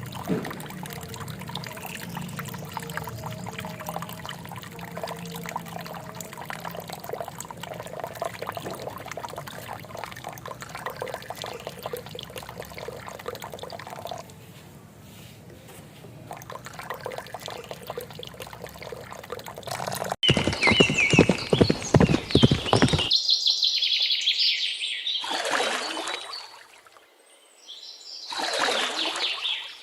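Water pouring and trickling, in several separate takes: a steady stretch, a louder pour about two-thirds through, then short gushes near the end.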